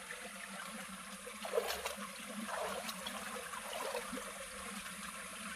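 Water trickling steadily in a small muddy ditch, with a few brief louder sounds about one and a half to three seconds in.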